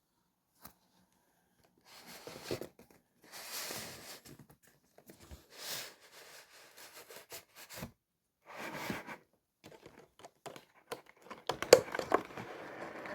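A cardboard model-locomotive box being opened and its packaging handled by hand: irregular bursts of rustling and scraping, turning into a denser run of sharp clicks and crinkling near the end.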